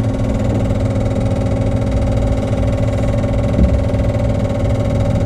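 Steady electrical hum and whine of the RV-12's systems powered on before engine start: master switch, electric fuel pump and avionics running, engine not yet started. A brief low knock about three and a half seconds in.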